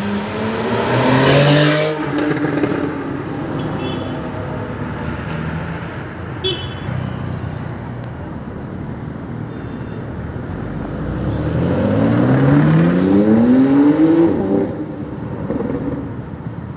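Car engines accelerating in street traffic, pitch rising: a short run-up near the start, then a louder, longer one lasting about three seconds past the middle, over steady traffic noise.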